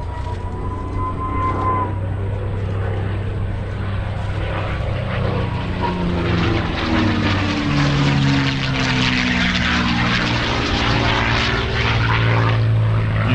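P-51 Mustang's V12 piston engine and propeller making a pass. The drone grows louder and drops in pitch as the aircraft goes by, and the rush of noise is loudest in the second half.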